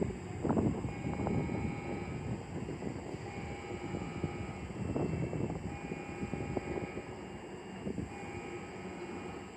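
Railway station ambience around a standing electric train: a steady low rumble with scattered knocks, and a short tone that sounds for about a second and repeats every two to three seconds.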